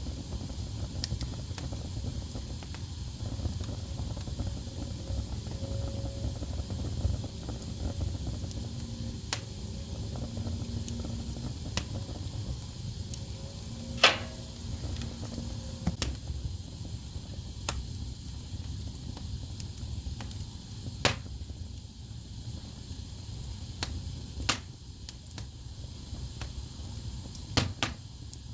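Wood fire burning in a fireplace: a steady low rumble of flames with scattered sharp pops and crackles from the logs, the loudest pop about halfway through.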